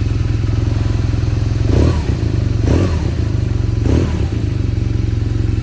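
2020 BMW R nineT Scrambler's air/oil-cooled boxer twin idling steadily, with three quick throttle blips about two, three and four seconds in.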